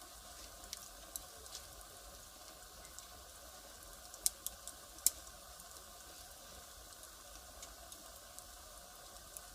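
Firewood fire burning with a low hiss and scattered sharp crackles and pops, the loudest pops a little past four seconds and about five seconds in.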